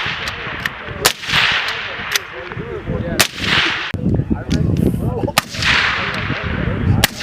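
Gunfire on a live-fire range: four loud shots about two seconds apart, each trailed by about half a second of hissing echo. Fainter shots from other shooters come in between.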